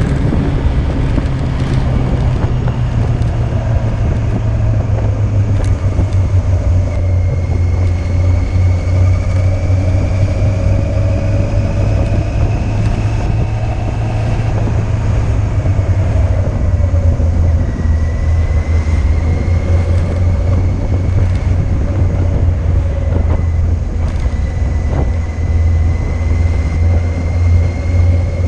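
Yamaha Fazer 600's inline-four engine running under way at a steady pace, mixed with wind noise on the mounted camera's microphone. Its note rises and falls gently as speed changes.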